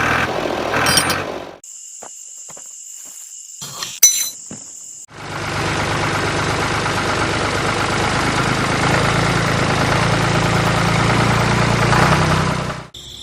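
A small motor starts about five seconds in, runs steadily with a low hum for about eight seconds, then cuts off suddenly. Before it, a quieter stretch holds a thin, high, insect-like chirping and one sharp click.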